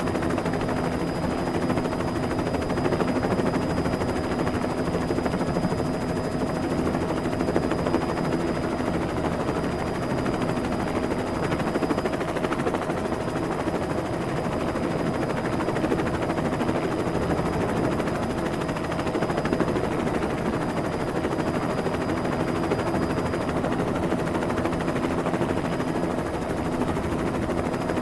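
Helicopter sound effect: steady, rapid rotor chop with a faint high tone, holding an even level throughout.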